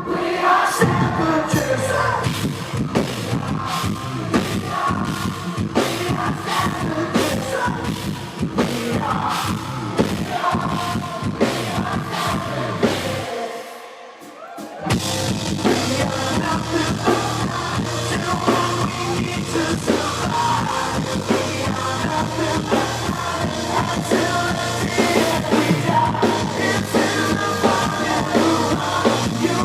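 Live rock band playing loudly, with singing, drum kit and electric guitars. About 13 seconds in, the band drops out for a moment, then crashes back in at full volume.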